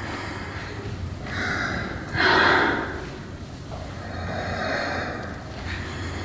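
Heavy human breathing: three loud, noisy breaths, the one about two seconds in the loudest, over a low steady hum.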